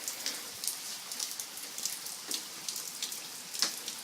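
Heavy downpour of rain falling steadily, with individual drops ticking sharply close by.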